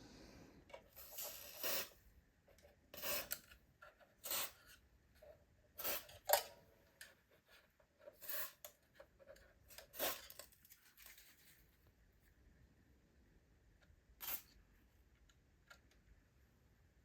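Hard plastic parts of an electric fan being handled: irregular short scraping and rubbing strokes about a second apart, falling quiet after one last scrape about two thirds of the way in.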